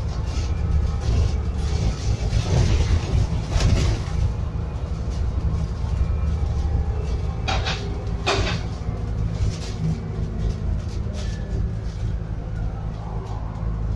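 Scania N280UD double-decker bus's biogas-fuelled five-cylinder engine running with a steady low hum, heard from inside the cabin, with the body rattling and a few sharp knocks around four and eight seconds in.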